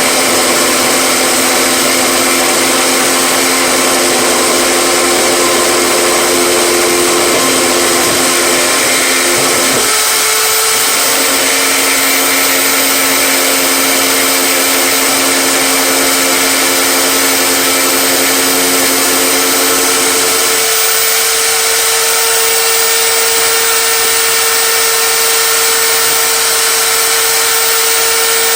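Power tool motor running continuously at a steady loud level, its pitch shifting slightly about ten seconds in and again about twenty seconds in.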